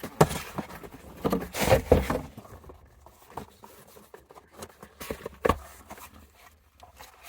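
Rustling and knocking as a boxed Moog idler arm and its packaging are handled, with several sharp knocks, the loudest about two seconds in and another about five and a half seconds in.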